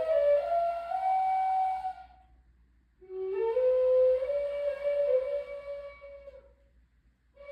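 A solo flute playing a slow melody in long held notes that step between pitches. One phrase rises to a held note and fades out about two seconds in; after a pause for breath a second phrase starts low, steps up, holds and fades out near the end.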